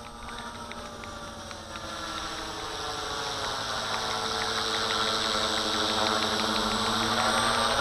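Walkera V450D01 electric RC helicopter in flight: a steady whine from its motor and spinning rotors that grows louder from about two seconds in.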